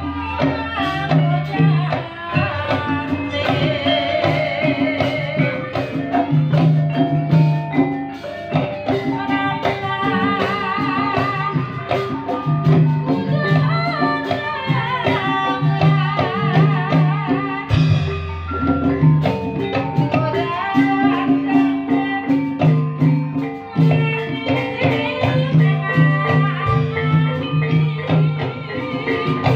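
Live ebeg dangdut music: mallet percussion plays melodic lines over a steady, repeating drum pattern, with a wavering melody line on top.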